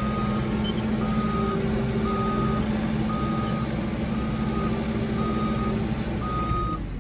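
Reversing alarm of a heavy earthmoving machine beeping about once a second, each beep about half a second long, over the machine's running engine, whose hum drops away about six seconds in.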